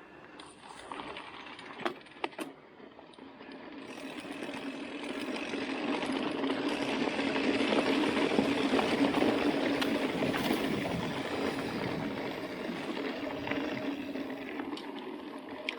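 Mountain bike rolling fast down a dusty dirt road: tyre noise and rattle build up over several seconds, peak midway, then ease off. A couple of sharp clicks come about two seconds in.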